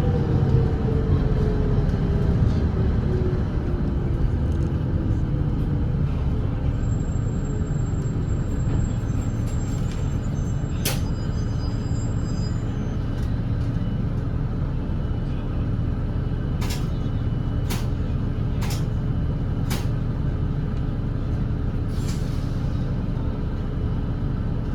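Volvo B8RLE double-decker diesel bus running at speed: a steady low engine and road rumble, the engine note falling over the first few seconds. A sharp tick about eleven seconds in, then four more about a second apart, and a short hiss near the end.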